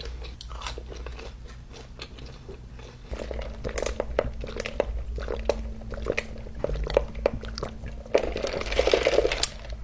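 Close-miked chewing and biting of crispy breaded chicken tenders: irregular crunches and wet mouth clicks, with denser chewing in the middle and near the end.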